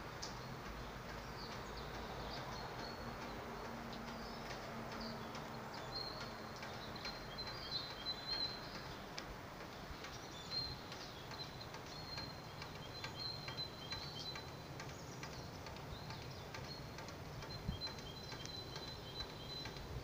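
Songbirds singing: many short high chirps and thin, level trills, more of them from about six seconds in, over a steady low background rumble.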